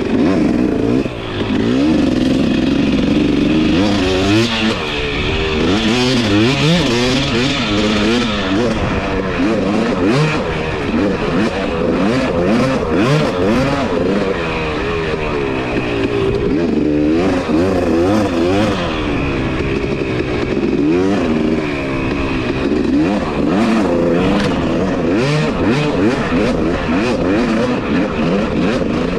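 Two-stroke dirt bike engine revving up and down through constant throttle changes while being ridden, its pitch rising and falling every second or so, with short clatters mixed in.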